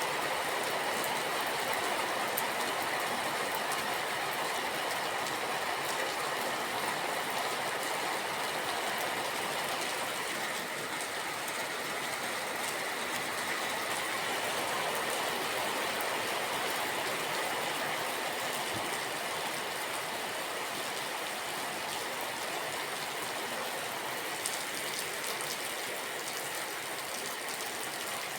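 Steady rain falling, an even hiss with no clear drops or rhythm.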